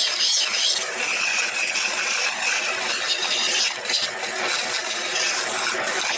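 A wood lathe running while a turning tool shaves the spinning wooden blank: a steady scraping hiss that flickers as the tool is worked along the wood.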